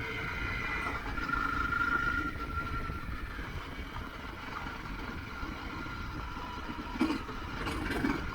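Motorcycle engine running while riding, with low wind and road rumble underneath, its note shifting slightly with the throttle. A short knock comes about seven seconds in.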